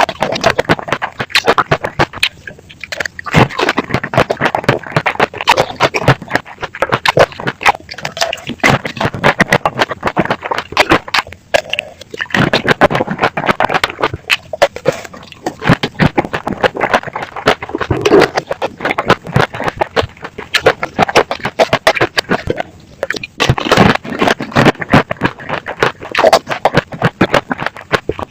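Close-up crunching and chewing of tanghulu, the hard sugar shell cracking in dense, rapid clicks, with a few short pauses between bites.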